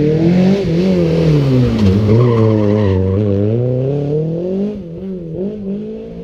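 Rally car driven hard through a tight corner, its engine revs falling and climbing several times, with tyre skidding over the first few seconds. The engine fades away near the end.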